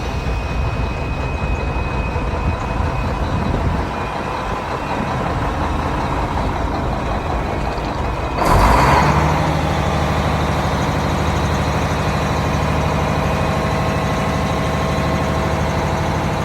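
Mack CL713 dump truck's diesel engine running. About halfway through there is a sudden loud burst of air hiss, like an air brake release. After it the engine settles into a steadier, stronger low note.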